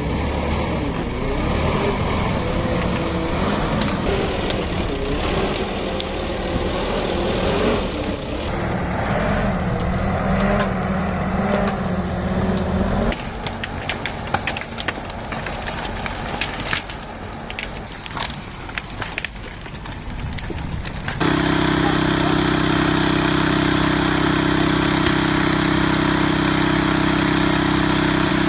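Heavy machine engines running, their pitch wavering under load. About 21 seconds in it cuts abruptly to a louder, steady engine drone.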